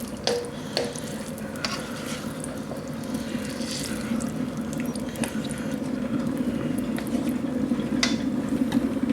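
Chicken in a yoghurt and tomato curry sauce simmering in a wok, bubbling and popping steadily and growing a little louder.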